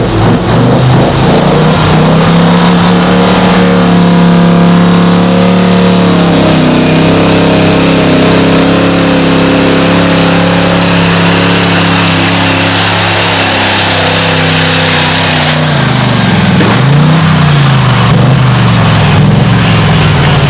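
Competition tractor-pulling tractor engine running at full power during a pull: a loud steady drone under a thin high whine that climbs slowly in pitch. About three quarters of the way through, the whine cuts off and the engine note dips and surges twice.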